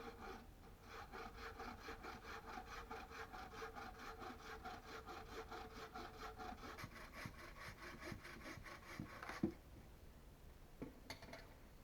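Hand saw cutting wood in quick, even strokes, about five a second, with a faint ringing from the blade. The sawing stops after about nine seconds with a sharp knock, and a couple of light clicks follow.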